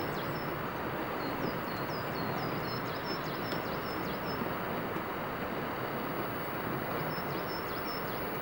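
Steady rushing outdoor background noise, with short high-pitched bird calls repeating through the first half and again near the end.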